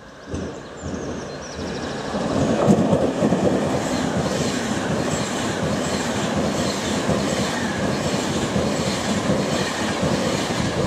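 London Euston to Manchester Piccadilly express passenger train running through the station at speed. Its rush of noise builds over the first couple of seconds and then holds loud and steady, with the wheels clattering rhythmically over the rail joints.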